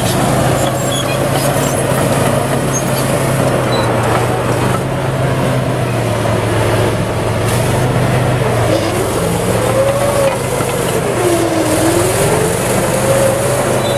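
Bulldozer's diesel engine running steadily under load, with a whine that rises and falls in pitch several times, most in the second half.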